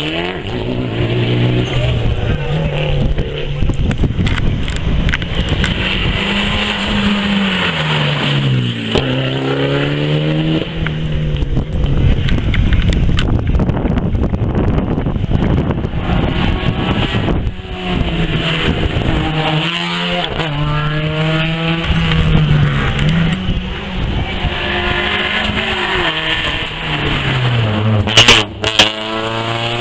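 Rally car engines running hard on a gravel rally stage, the engine note rising and dropping as they change gear, over a steady noise of tyres and gravel. A couple of sharp bangs near the end are the loudest moment.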